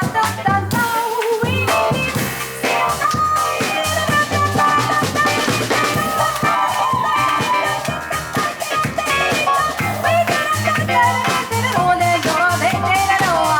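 A live jazz combo playing: piano, double bass and drum kit, with bass notes and drum hits under a melody that bends in pitch.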